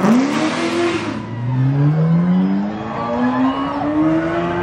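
A car engine accelerating, its pitch climbing steadily over several seconds after a brief noisy burst at the start.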